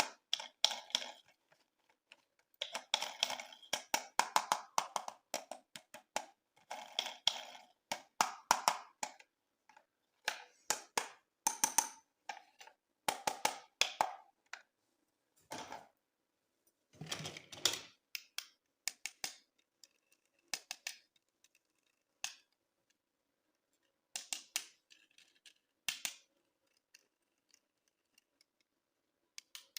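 Hands handling plastic toys and packaging: clusters of sharp clicks, taps and crinkles with short pauses between them. There is a duller knock about 17 seconds in, and the handling grows sparser towards the end.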